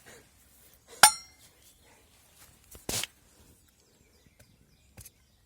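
A single sharp metallic clink with a brief ring about a second in, then a short scrape near three seconds and a faint click near the end.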